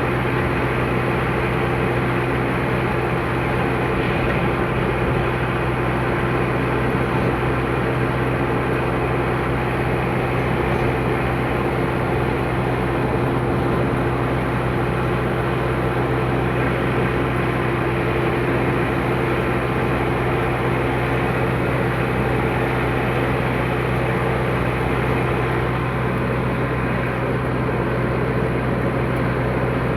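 Tractor engine running steadily at an even speed, a constant low drone with no change in pitch.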